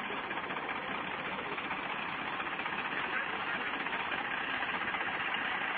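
Tractor diesel engine running steadily while pulling a heavily loaded sugarcane trolley.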